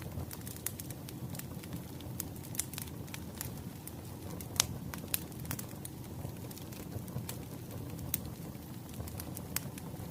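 Wood fire crackling: irregular sharp pops and snaps over a low steady rumble of burning logs, with one louder pop a little past four seconds in.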